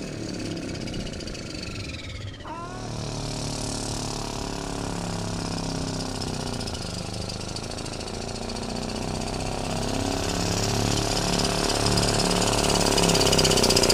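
Small pulling tractor's 2-litre turbocharged two-cylinder engine running hard under load during a pull. The revs dip and then climb sharply about two and a half seconds in, and the engine then pulls steadily, getting louder toward the end with a high whine above the engine note.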